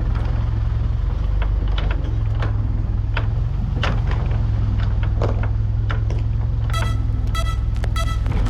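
Diesel engine of a tractor or mini excavator running steadily, with scattered knocks and clatters over it and a run of short squeaks near the end.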